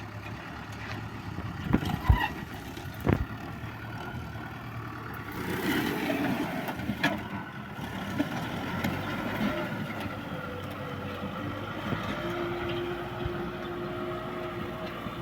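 Kubota M6040S tractor's diesel engine running steadily, with a few sharp knocks or clanks about two and three seconds in.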